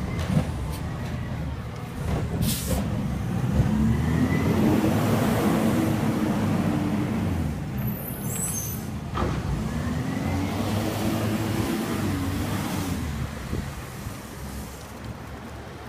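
Garbage truck's diesel engine revving up, holding, and dropping back twice, as it powers the collection hydraulics. A short air hiss comes about two and a half seconds in.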